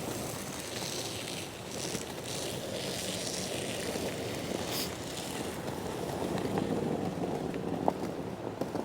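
Toyota Tacoma pickup moving slowly while being backed up and levelled into a campsite, a steady running noise.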